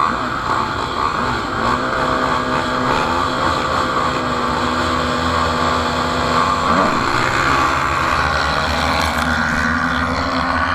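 Motocross bike engines running and revving, with one sweeping up in pitch about seven seconds in.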